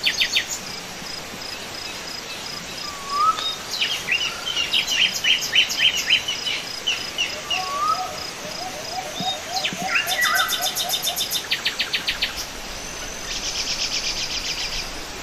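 Several songbirds calling and singing in a mix of sharp chirps, short rising whistles and fast trills, with a steady high insect chirping, like a cricket, underneath.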